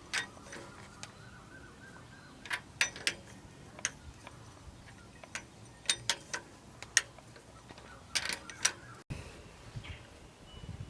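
Scattered sharp metallic clicks and clinks of tools and engine parts being handled during engine assembly, irregularly spaced, with a quick cluster near the end.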